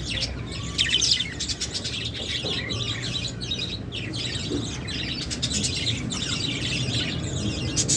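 Lovebirds chirping and chattering: a steady stream of quick, high chirps, loudest about a second in.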